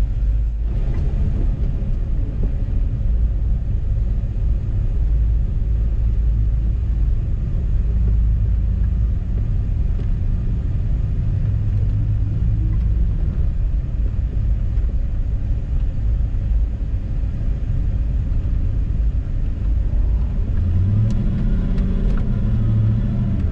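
A car engine's low, steady rumble, with the engine note rising near the end as the car pulls away.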